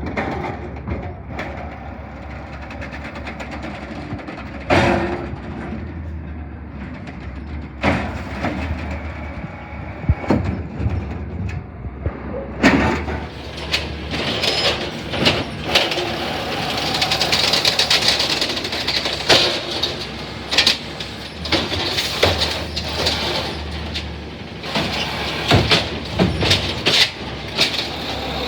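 CNG Peterbilt 320 garbage truck with an Amrep body, its engine running steadily, with occasional loud metal clanks. About halfway through, the hydraulics start working: a high hiss or whine joins the engine, along with a rapid run of metallic bangs and clatter as a refuse bin is handled and emptied.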